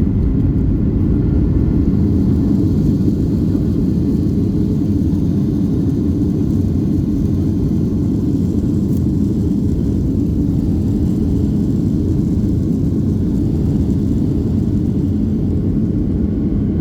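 Airliner cabin rumble as the plane rolls out on the runway just after touchdown: a loud, steady low drone of engines and wheels, a little louder in the first few seconds and then even.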